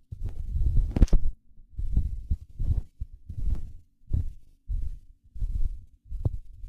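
Walking footsteps with the handheld recorder jostled at each step: a steady series of low, muffled thuds, about three every two seconds.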